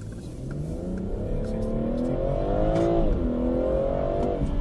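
Car engine accelerating, its pitch climbing steadily, then dropping sharply about three seconds in before climbing again, as at a gear change.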